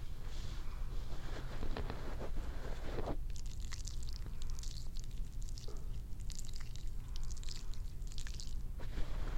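Close-miked ASMR haircut and shampoo sounds on hair: crackly rustling at first, then, from about three seconds in, a run of short, high hissy strokes about twice a second.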